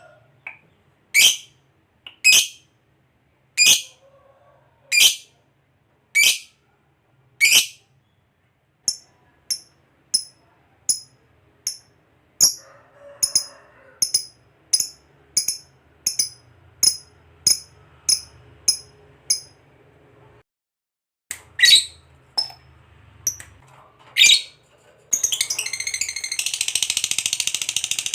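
Lovebird calling with sharp, high single chirps, spaced out at first and then coming about twice a second, breaking about 25 s in into a continuous rapid chattering trill, the long 'ngekek' song.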